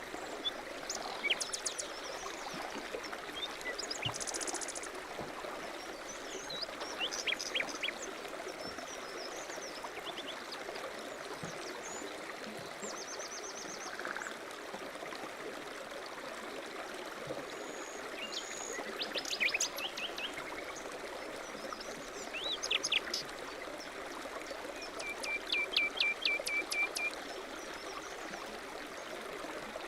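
A stream running steadily, with small birds chirping and trilling over it. The calls are short and scattered, and a quick run of repeated high notes comes a little after the 25-second mark.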